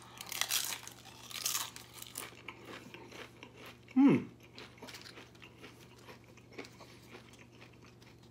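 A thin tortilla chip with salsa bitten and chewed close to the microphone. There are two loud crunches in the first two seconds, then quieter crunching chews, and a short hum falling in pitch about four seconds in.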